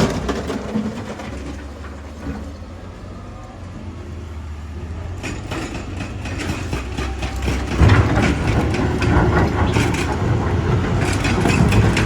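Heavy diesel machinery engine running steadily, with a heavy clattering and rumbling that starts about five seconds in and grows loudest about eight seconds in.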